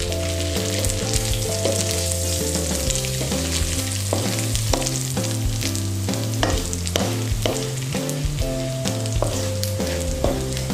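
Hot oil in a wok still sizzling and crackling as fried anchovies are scooped out with a wire strainer, with a wooden spatula and the strainer scraping against the pan. Background music with a stepping bass line plays underneath.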